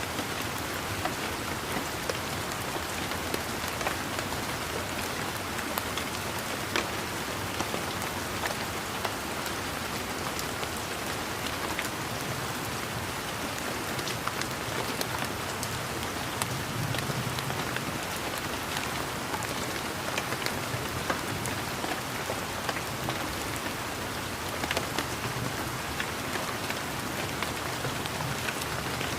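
Steady rain falling, with many individual drops ticking close by over an even hiss, and a faint low rumble that swells slightly about halfway through.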